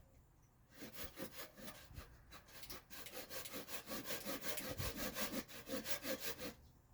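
Hand saw cutting back and forth in alderwood with quick, even strokes. It starts about a second in and stops just before the end. This is the saw setting the stop cut at the corner of a carved mask's mouth opening.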